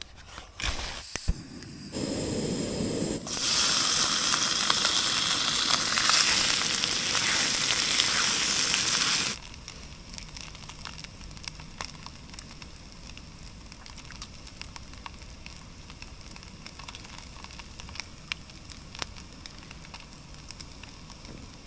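Leftover rice sizzling as it is reheated in a hot frying pan: a loud steady sizzle that starts about two seconds in, grows brighter a second later, and cuts off abruptly about nine seconds in. A much quieter stretch with scattered small clicks follows.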